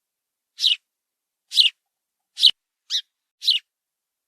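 House sparrow chirping: five short, sharp chirps, about one a second.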